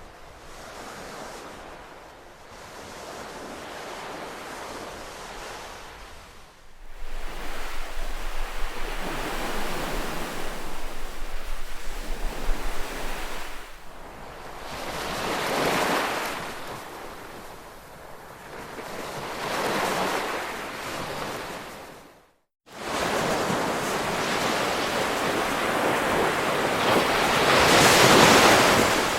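Ocean waves washing ashore, the surf swelling and falling back in slow surges every few seconds. The recording cuts abruptly at about a quarter of the way in, and drops out briefly near three-quarters through.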